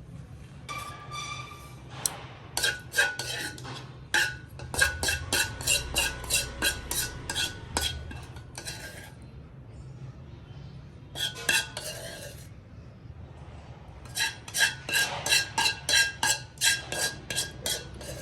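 A metal utensil clinking repeatedly against cookware, as in stirring, in runs of quick ringing strikes about three a second, with short pauses between the runs.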